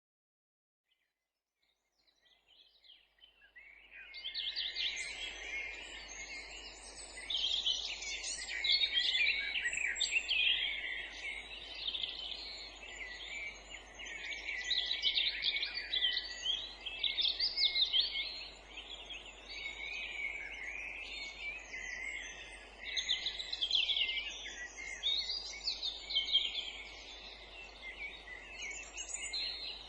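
Woodland songbirds singing together in a dense, overlapping chorus of chirps and warbles, fading in after about two seconds of silence.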